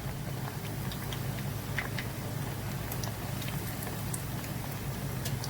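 Food cooking in a pot on the stove: a faint, steady crackling patter over a low hum.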